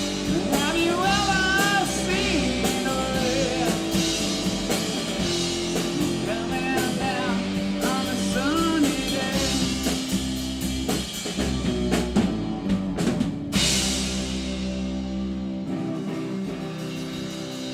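Live rock band playing the closing bars of a song: drum kit and guitars with a wavering lead line, a big cymbal crash about two-thirds of the way through, then a final held chord that rings out and fades.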